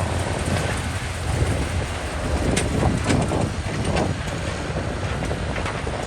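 Caterpillar D6R2 crawler bulldozer running, a steady low diesel drone with a few sharp clicks or snaps over it around the middle.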